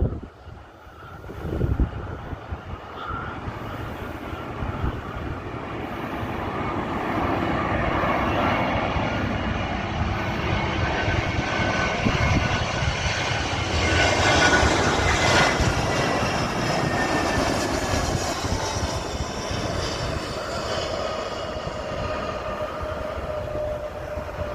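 Airbus A320-232 jet airliner with IAE V2500 turbofan engines on landing approach: the engines grow steadily louder to a peak about midway, then their tones slide down in pitch as it passes and moves away. Gusty wind buffets the microphone near the start.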